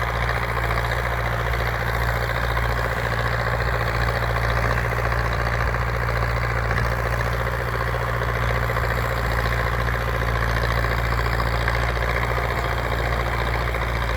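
Belarus MTZ-82 tractor's four-cylinder diesel engine running at a steady, unchanging speed.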